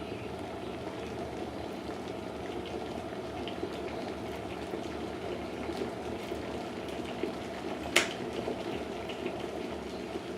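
Vitek VT-1169 SR electric kettle with a full 1.8 litres of water at the boil, a steady rushing, bubbling noise. A single sharp click about eight seconds in.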